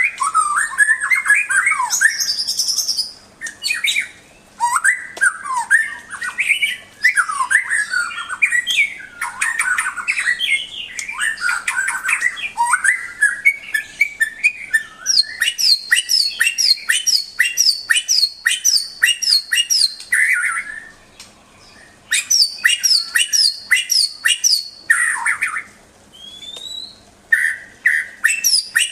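White-rumped shama (murai batu) singing a long, varied song of whistles and chattering phrases. In the second half come runs of sharp, quickly repeated notes, broken by short pauses.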